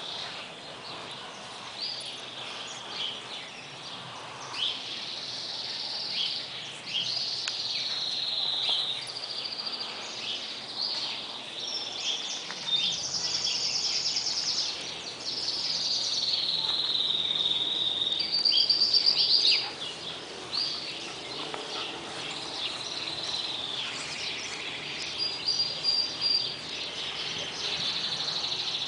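Birds singing and calling, many chirps and trills overlapping, some sliding down in pitch.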